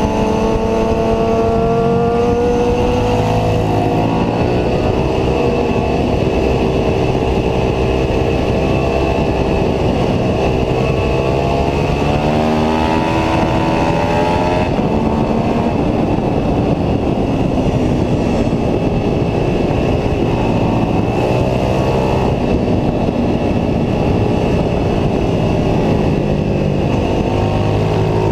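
Ducati 749S L-twin engine at racing speed, heard from a camera mounted on the bike. The revs climb and fall over and over as it shifts up and down through the gears.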